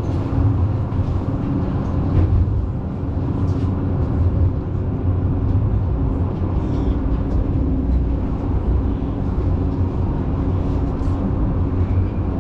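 Tram running between stops, heard from inside the car: a steady low rumble from the wheels and running gear, with a faint hum and a few light clicks and rattles.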